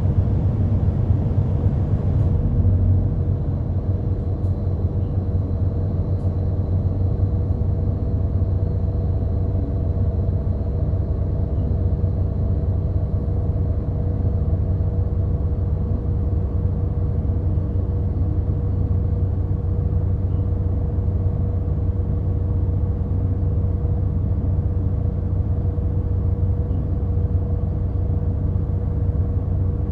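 Route bus running, heard from inside the passenger cabin: a steady low engine and road rumble with a faint constant whine, the higher road hiss easing about two seconds in.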